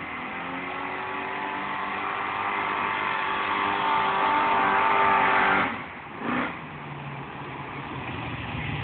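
A motor vehicle engine revving, climbing in pitch and getting louder for about five seconds, then dropping off suddenly. It gives a short blip of revs and settles to a lower, steady running.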